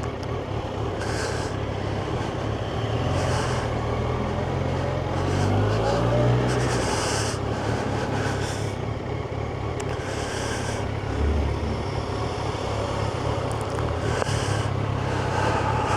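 Yamaha FZ1's inline-four engine running while the motorcycle is ridden through traffic, the engine note climbing briefly about five seconds in and then settling back. Short patches of high hiss come and go every couple of seconds.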